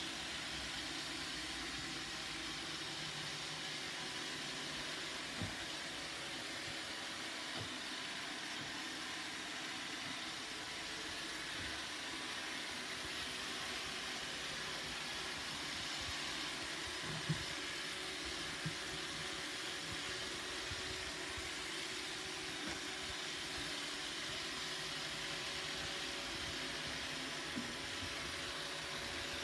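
Roomba robot vacuum running with a steady whirring hum and hiss, with a few brief knocks.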